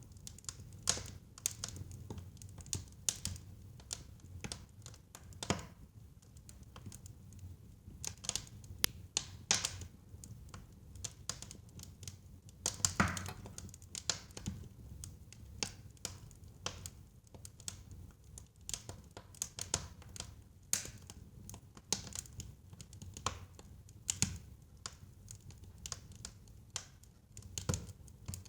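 Burning firewood in a fireplace crackling, with irregular sharp pops and snaps over a low, steady rumble of the flames; a few louder pops stand out, the strongest about thirteen seconds in.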